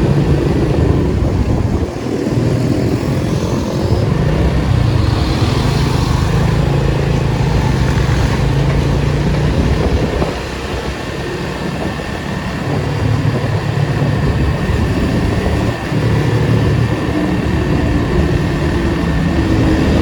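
Datsun 280Z's inline-six engine running while the car is driven in traffic. The sound eases off briefly about two seconds in, then drops for a few seconds about halfway through before pulling again.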